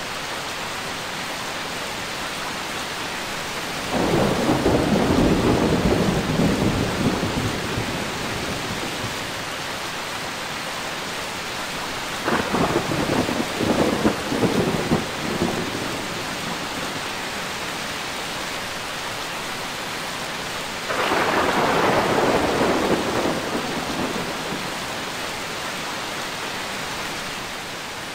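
Steady rain with three rolls of thunder: a low rumble about four seconds in, a sharper, crackling peal at about twelve seconds, and another rumble at about twenty-one seconds, each dying away over a few seconds.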